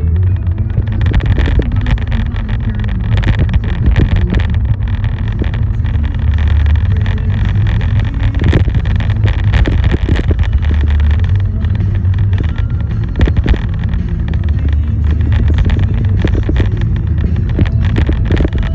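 Car driving on the road: a steady, heavy low rumble of road and engine noise, with many short crackles running through it.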